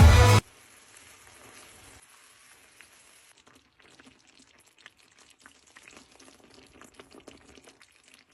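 Music cuts off about half a second in, leaving faint sizzling of food cooking in a pan, with scattered small crackles and pops.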